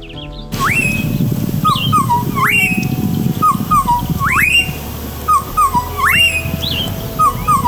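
A bird repeating a whistled call about every two seconds: a few short falling notes, then a sharp upward whistle held high, which the recordist takes for African fish eagles. A low rustling noise runs beneath.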